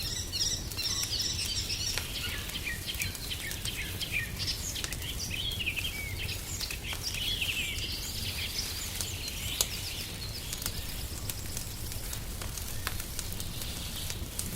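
Wood fire crackling with scattered sharp pops, mixed with small birds chirping and singing through roughly the first two-thirds, over a steady low rumble.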